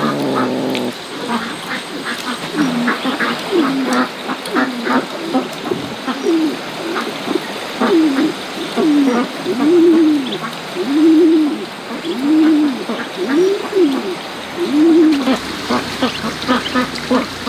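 Repeated short animal calls, each rising and falling, about one a second, with quick higher-pitched clicks among them; the calls are duck-like.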